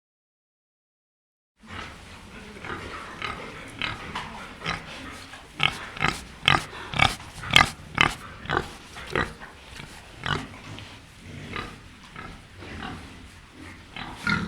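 Domestic pig grunting in a quick run of short grunts, two or three a second. The grunts start after about a second and a half of silence and are loudest in the middle.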